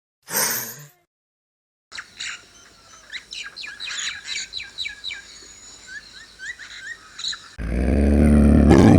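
A brief whoosh, then small birds chirping with quick, high, falling notes. Near the end a loud, low animal growl cuts in and drowns them out.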